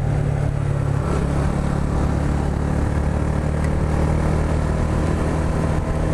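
Yamaha R125's single-cylinder four-stroke engine running steadily while under way, its note shifting lower about a second in, over a steady rushing noise.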